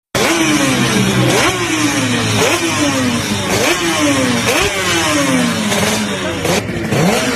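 Motorcycle engine being revved over and over, its pitch climbing sharply and then falling back about once a second.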